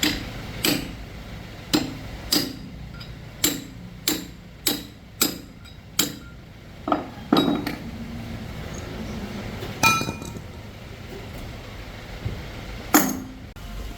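Hammer blows on metal, about a dozen sharp strikes with a short metallic ring: a quick irregular run of about nine, then a few spaced several seconds apart.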